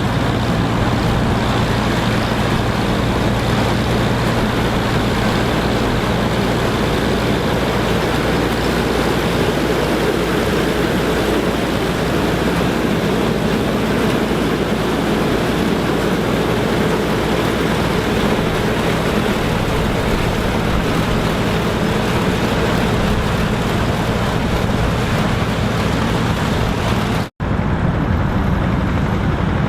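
Farm machinery engine running steadily, a continuous hum under a broad mechanical noise. It breaks off for an instant near the end and then carries on.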